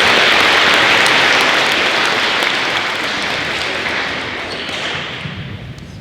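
Audience applauding, loud at first and dying away over the last few seconds.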